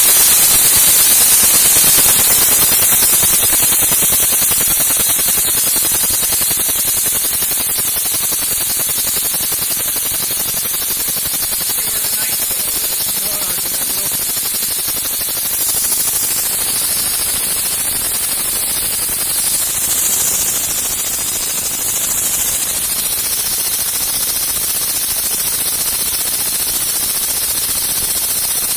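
Small home-built compressed-air piston engine running fast: a rapid, even stream of exhaust puffs over a steady hiss of escaping air.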